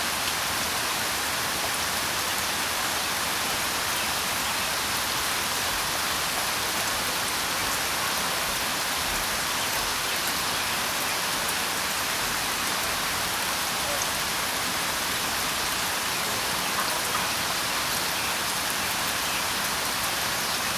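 Steady rain falling, an even hiss that holds at one level with no let-up.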